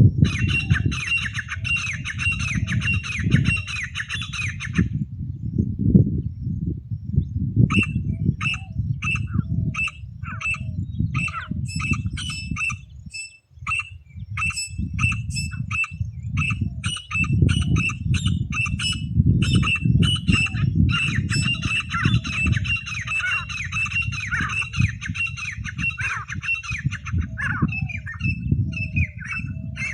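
Teetar (francolin) calling: fast runs of shrill, repeated notes that break off twice, briefly, over a steady low rumble.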